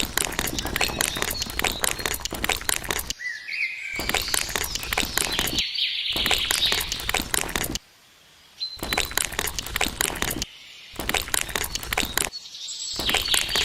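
Birds chirping over a dense crackling and crunching, broken by several abrupt cuts, with a brief near-silent gap about eight seconds in.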